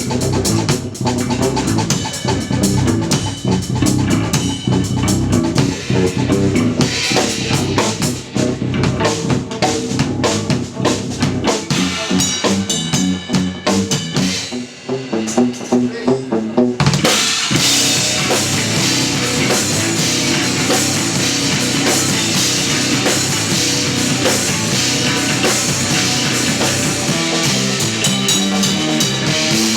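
Live instrumental progressive/post-rock trio, drum kit with electric guitar and electric bass, playing. Dense drumming with kick, snare and rimshots; about halfway through the music briefly thins out, then the full band comes back in louder with a steady wash of cymbals.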